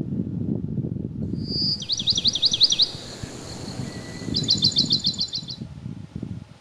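Wind blowing through woodland as a steady low rumble, while a small bird sings two short phrases of rapid high repeated notes, the first about a second in and the second a few seconds later.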